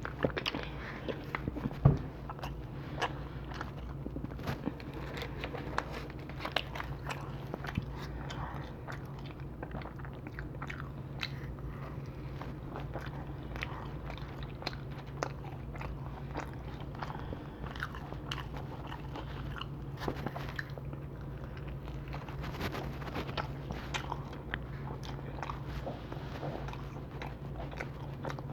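Close-miked chewing and biting of pizza: a constant run of small crunchy, wet clicks, with one sharp louder click about two seconds in, over a steady low hum.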